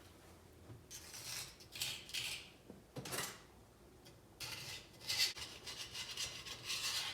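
Irregular rubbing and scraping strokes by hand: three short strokes in the first three seconds, then a denser run of scraping from about halfway through.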